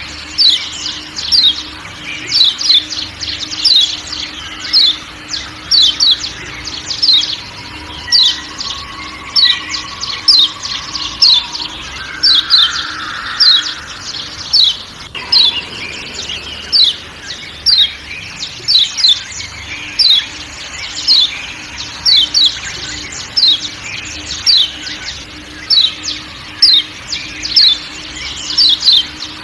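Kecial kuning (Lombok yellow white-eye) giving its 'ciak ciak' call: short, sharp, high notes, each sweeping quickly downward, repeated about twice a second over a background of forest sound.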